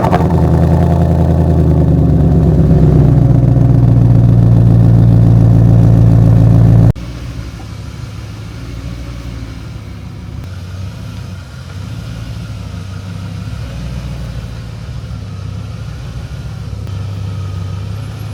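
BMW E30's swapped-in 4-litre V8 running at a steady idle on its first start after winter storage. About seven seconds in, the sound cuts abruptly to a quieter steady idle.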